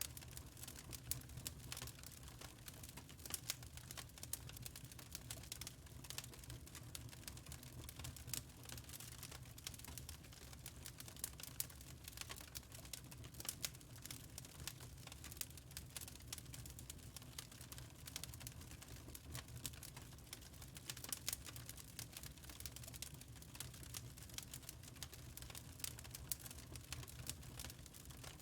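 Wood fire crackling steadily in a fireplace: many small irregular pops and snaps over a low rumble of the flames.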